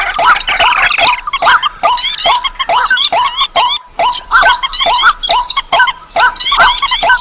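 Lure recording of paddy-field and marsh birds such as rails, crakes and waterhens: a loud, rapid series of short calls that each rise and hook, about three or four a second, with calls overlapping.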